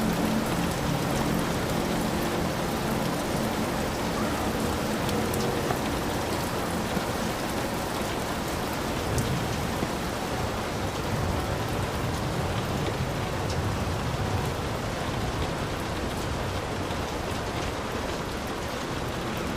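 Heavy rain falling steadily on a hut, with a dense hiss of rain and scattered sharp drop impacts over a low rumble.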